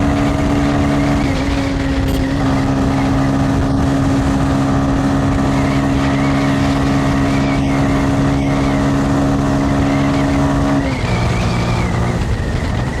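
Motorcycle engine running at steady revs while riding, over a steady rush of wind and road noise. The engine note shifts a little about a second in and drops about eleven seconds in.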